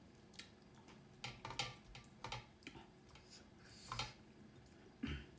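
Close-miked eating sounds: chewing with scattered soft mouth clicks and smacks, a quick cluster of them early and single louder clicks about four seconds in and near the end.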